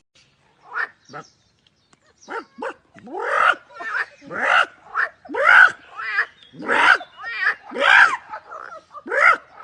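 A dog barking repeatedly, about once a second. A few short, quieter barks come first, then louder barks that rise and fall in pitch.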